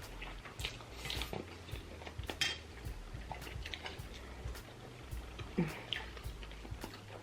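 Cutlery clinking and tapping on plates during a meal: scattered light clicks, the sharpest about two and a half seconds in, with a brief low hum from a person near the end.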